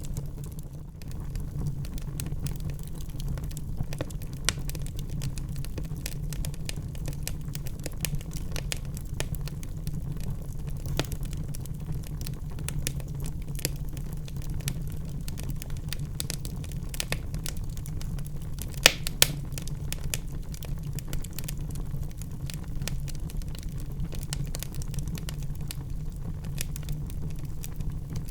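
Wood fire burning in a fireplace: a steady low rumble of flame with frequent small crackles and snaps. Two louder pops come close together about two-thirds of the way through.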